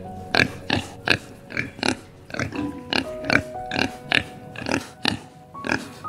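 Wild boars grunting in short, sharp calls, about two a second, over soft background music with held notes.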